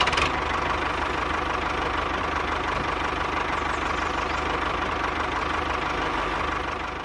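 A small engine running steadily at idle with a fast, even knocking beat; it stops abruptly at the end.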